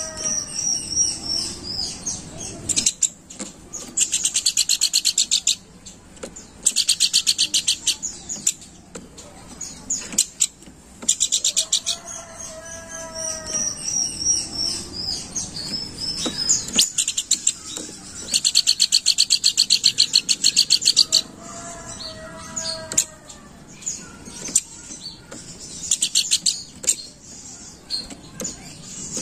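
Pelanduk bukit babbler singing: bursts of very rapid, high trills lasting one to three seconds, alternating with runs of high whistled notes and a few lower, slurred whistles.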